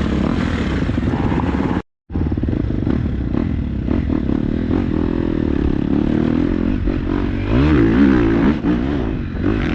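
Dirt bike engines idling, with one rev that rises and falls near the end. The sound cuts out completely for a moment about two seconds in.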